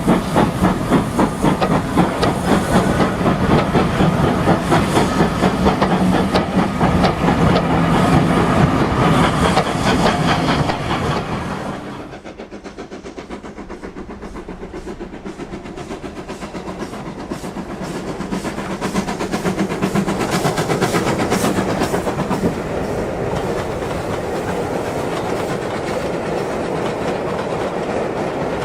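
Steam locomotive sound, a Midland 4F, working with a rhythmic exhaust beat and rail clatter. It drops sharply in level about twelve seconds in, then builds back to a steadier run.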